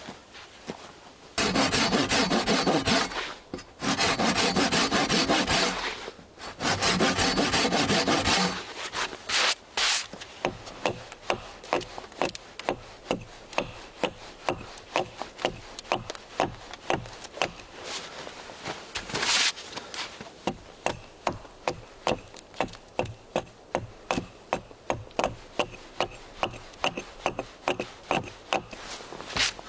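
A hand tool cutting into wood. It starts with three long stretches of fast, dense strokes, then settles into a steady run of short strokes, about two a second.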